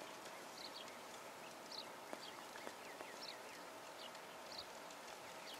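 Faint bird chirps: short, high notes at irregular intervals, about two a second, with a few quick down-slurred notes in the middle, over a quiet outdoor background.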